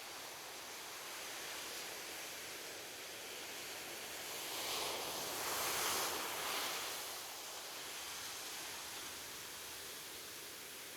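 Ocean surf on a beach: a steady hiss of water, with one wave swelling up and washing in about halfway through before easing back.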